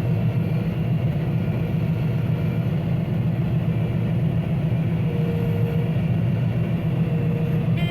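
Combine harvester's engine running steadily while its grain hopper is being unloaded, a constant low drone with no change in speed.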